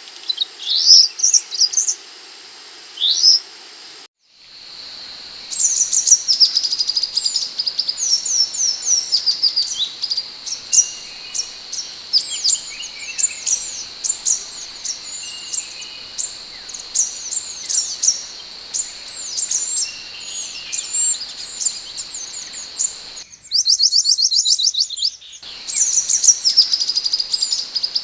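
Scarlet minivet (sepah hutan) song: a rapid, continuous run of high, downward-sweeping chirps over a steady high whine. The song cuts out briefly about four seconds in and changes character for a couple of seconds near the end.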